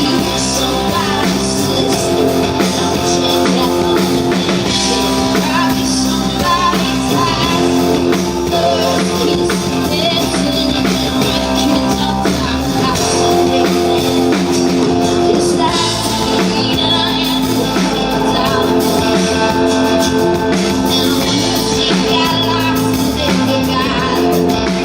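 Live amplified band music with a singer and guitar, played over a PA.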